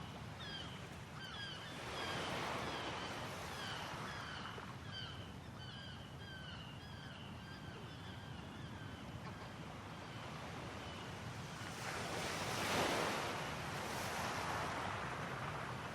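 Sea waves washing onto the shore, swelling up about two seconds in and again, loudest, near the end. Through the first two-thirds a bird gives quick, short, falling calls over and over, about two a second, then stops.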